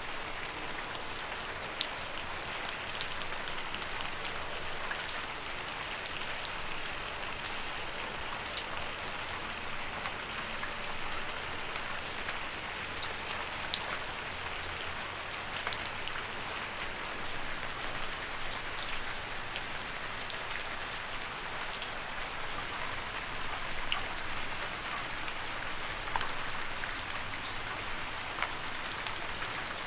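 Steady rain: a constant hiss of falling rain with many distinct drops ticking sharply on a surface close by.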